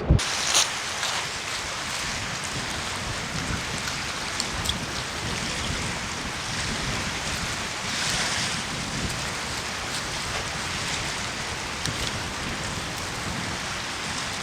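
Steady rain falling, an even hiss with wind, and a few sharper drop ticks.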